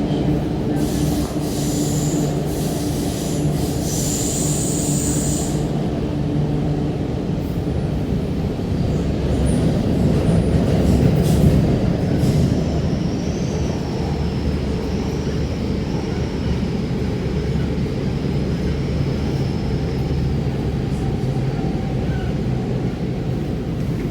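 Rotem-built MTR K-Train electric multiple unit running at speed, heard from inside the car: a steady low rumble of wheels on rail with a low motor hum in the first few seconds. There are brief high wheel squeals about two and five seconds in, and a faint wavering high whine midway.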